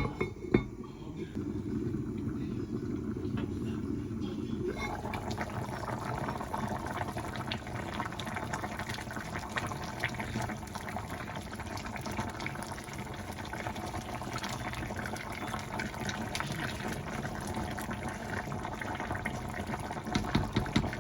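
Steady watery sound of liquid running or bubbling. About five seconds in it grows fuller and brighter, with fine crackling through it.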